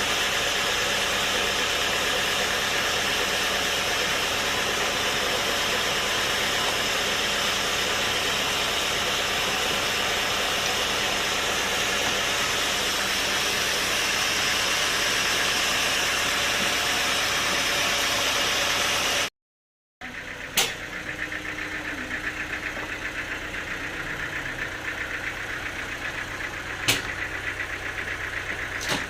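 Sawmill machinery running steadily and loudly. After a brief break it runs more quietly, with a few sharp knocks.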